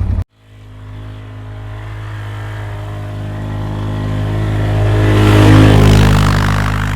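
ATV engine running as the machine drives toward and past, growing louder to a peak about five and a half seconds in and then fading away. It starts right after a brief moment of silence.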